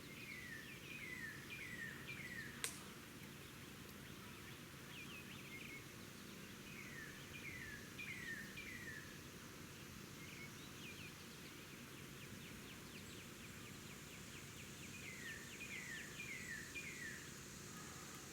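Bird calling: three runs of about four quick notes, each note sliding downward, with scattered shorter chirps between the runs. One sharp click about two and a half seconds in.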